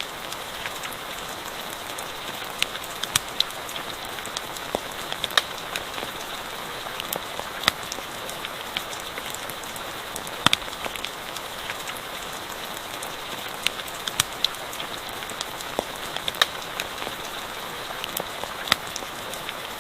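Steady rain falling, mixed with a crackling campfire whose sharp pops come at irregular moments over the even hiss.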